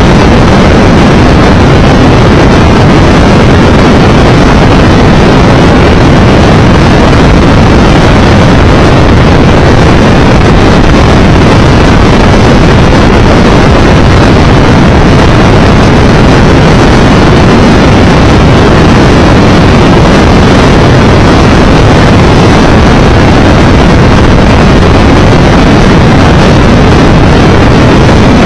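Loud, steady wind rushing over the microphone, with the engine and road noise of a Triumph Tiger Explorer 1200 motorcycle underneath as it is ridden along.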